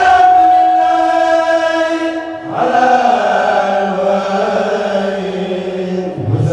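A kourel choir of male voices chanting a Mouride religious poem (khassida) in unison, drawing out long held notes. A new phrase begins about two and a half seconds in, and another near the end.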